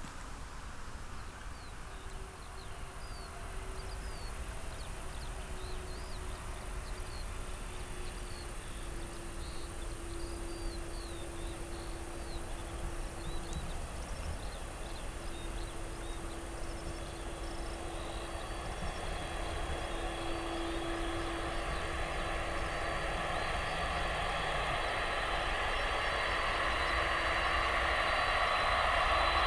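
An aircraft's engines running and growing steadily louder as it approaches, a steady hum with a low drone and whining tones that build in the last third.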